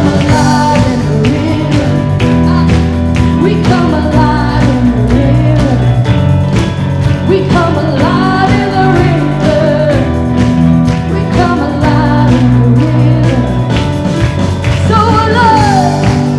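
Live church worship band playing a rock-style worship song with a vocalist singing over bass, guitars and steady drums.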